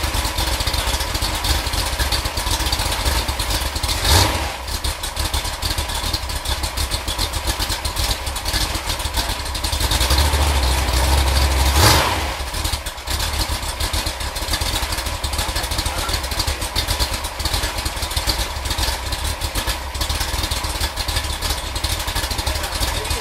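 Freshly rebuilt Ford 428 FE V8 running at idle, with a quick rev about four seconds in and a longer rev from about ten to twelve seconds before it drops back to idle.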